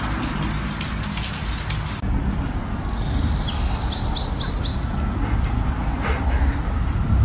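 Small birds chirping, with a quick run of four high chirps about four seconds in, over a steady low outdoor rumble. A rapid crackle of clicks fills the first two seconds, before the outdoor sound begins.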